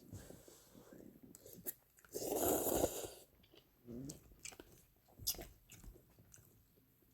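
Close-up mouth sounds of eating ramen noodles: wet chewing and smacking with small clicks, and one loud slurp about two seconds in.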